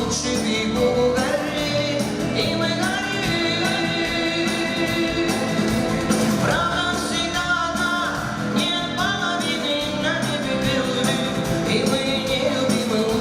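Live pop-rock band music with a melodic lead line of long held notes, each wavering slightly, over steady accompaniment.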